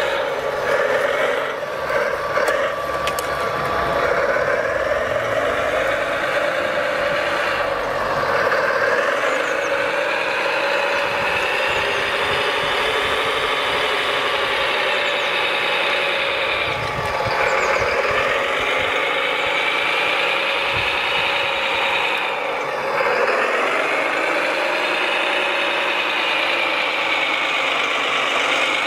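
Electric motors of radio-controlled model construction machines whining. Their pitch sweeps down and back up several times as the models slow and speed up, over a steady mechanical hum.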